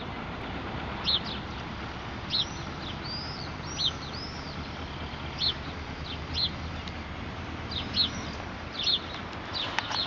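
Small songbirds chirping: short high calls and a few arching whistled notes every second or so, over a steady low background noise.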